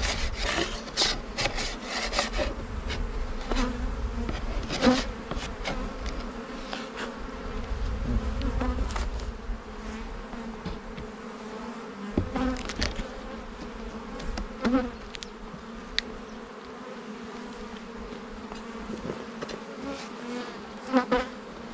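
Honeybees buzzing around an open hive, a steady hum, with short scraping and clicking strokes as hive parts are scraped clean; the scraping comes thickest in the first half and thins out later.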